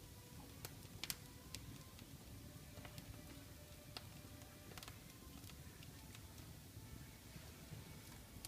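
Wood fire burning in a fireplace, crackling faintly with scattered sharp pops over a low, steady rumble.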